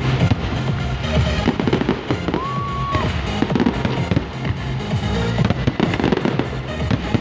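Fireworks display: a rapid, continuous string of bangs and crackling bursts, heard over loud music.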